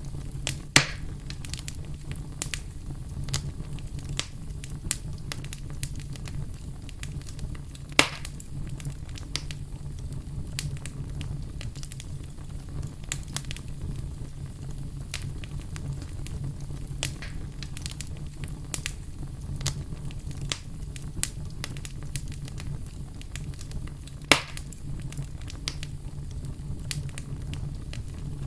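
Fire burning with a steady low rumble and frequent small crackles, with three louder pops, about a second in, about eight seconds in and near the end.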